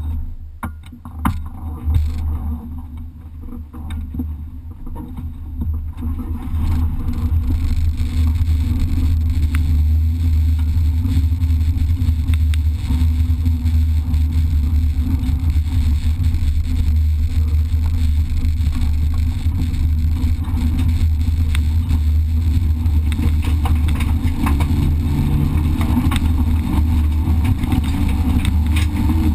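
Race car's engine heard from inside the cabin: it comes in suddenly and runs unevenly for the first few seconds, then runs loud and steady as the car drives along under power.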